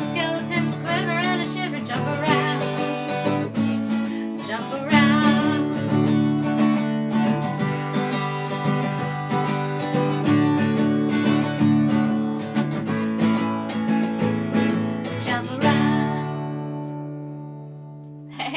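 Acoustic guitar strummed in a steady rhythm; about three seconds before the end the last chord is left to ring and fade away.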